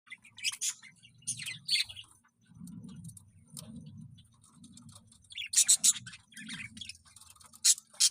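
Budgerigars chirping in short, sharp bursts, in clusters a few seconds apart, with a low background hum coming and going underneath.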